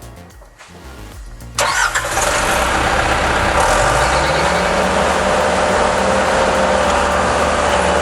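An excavator's diesel engine running loudly with a steady whine. It cuts in suddenly about a second and a half in, after a quiet low hum.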